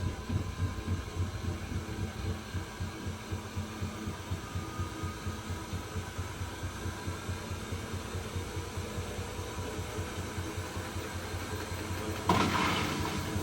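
Hoover H-Wash 300 Plus washing machine running, its turning drum giving a fast, even low throb several times a second. Near the end a louder rushing noise starts suddenly and carries on.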